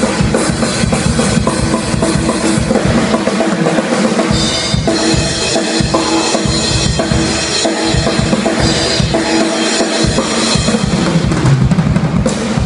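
Tama drum kit played during a sound check: rapid bass drum strokes under snare hits, with a cymbal crash about five seconds in.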